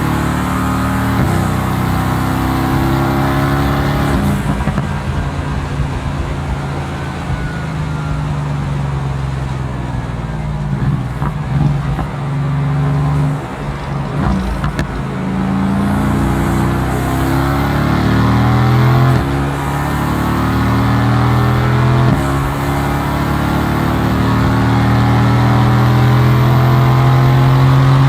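Mercedes-AMG GT S 4.0-litre twin-turbo V8 pulling hard through the gears, its note climbing and dropping back at each upshift. Around the middle, off throttle, the exhaust gives a few sharp pops and crackles.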